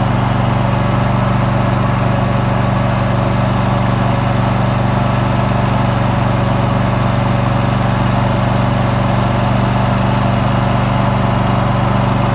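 Riding lawn mower's engine running steadily at a constant speed while the mower is driven along.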